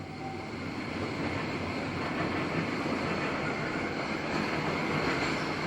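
Freight train rolling past on the rails, a steady rumble of wheels and cars that grows slightly louder.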